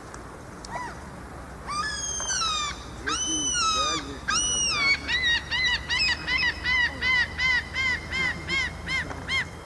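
Gull giving its long call: three drawn-out notes that drop in pitch at their ends, then a run of short, clipped notes at about three a second that stops near the end.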